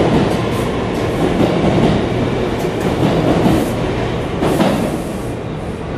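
New York City subway trains running through an underground station side by side, a steady loud rumble of wheels on rail with occasional clacks over the track joints.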